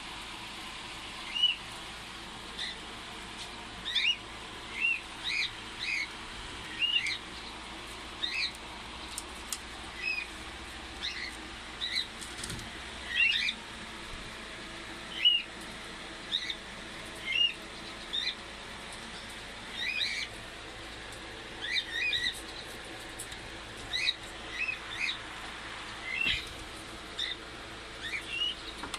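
Cockatiel calling over and over: short chirps that rise and fall in pitch, about one or two a second, some in quick pairs.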